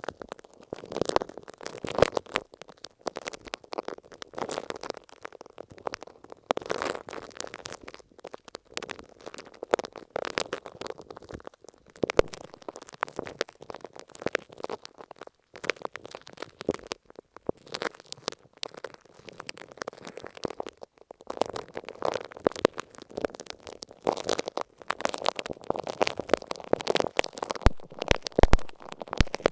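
A spiky urchin ball rubbed and rolled over an earphone microphone wrapped in masking tape. It makes dense crackling, scratchy rustles that come in uneven surges of strokes.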